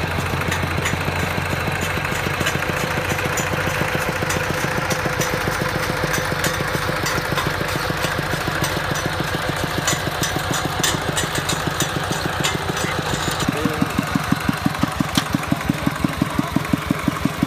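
Engine of a rice-harvesting machine running steadily. Near the end its beat turns into a stronger, even pulse of about four a second.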